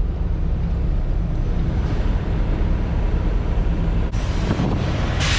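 Semi truck's diesel engine running slowly while the truck reverses, a steady low rumble, with a short hiss about four seconds in.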